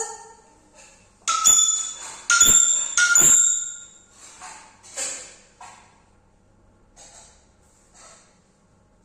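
A pet parrot calling: three loud, shrill, held notes in quick succession in the first few seconds, followed by a few softer, breathy sounds.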